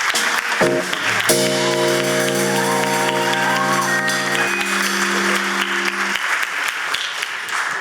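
Audience applauding over music with long held chords, which change partway through and stop about six seconds in; the clapping carries on after the music ends.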